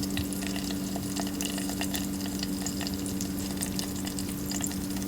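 Whole spices frying in hot oil in a pressure cooker: a steady crackling sizzle, over a constant low electrical hum.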